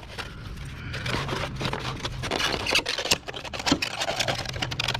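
Scraping and clattering as debris (rusted screws, bits of foam and plastic) is raked and picked out of a scrapped window air conditioner, a busy run of small scrapes and clicks.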